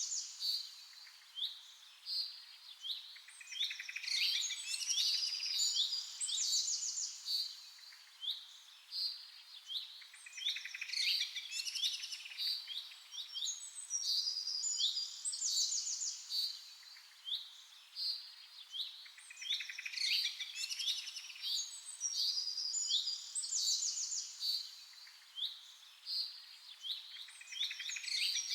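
Birds chirping and twittering: dense runs of quick, high chirps and trills that swell and ease off every few seconds.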